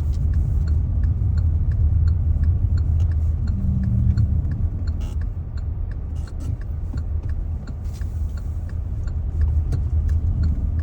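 Car driving, heard from inside: a steady low road and engine rumble, with a faint regular ticking about twice a second.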